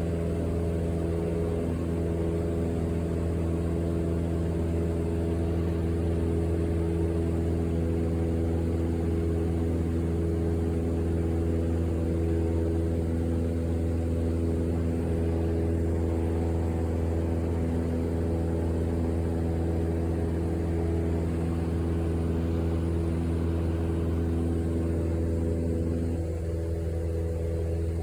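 Steady engine drone heard from inside a vehicle: a strong low hum with several steady tones above it, unchanging in pitch, with some of the middle tones dropping away about 26 seconds in.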